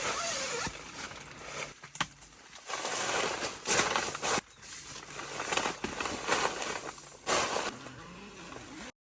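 Nylon tent fabric and gear being handled: irregular rustling bursts with a couple of sharp clicks. The sound cuts off abruptly near the end.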